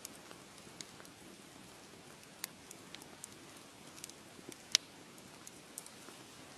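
Wood fire crackling in a fireplace: a soft, steady hiss with scattered sharp pops, the loudest a little under five seconds in.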